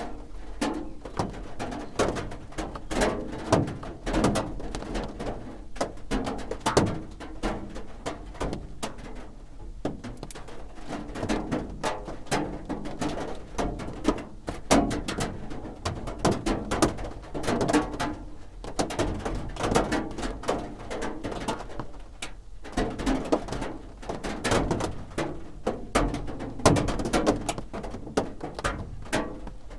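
Raindrops drumming on a roof, a dense, irregular patter of sharp taps.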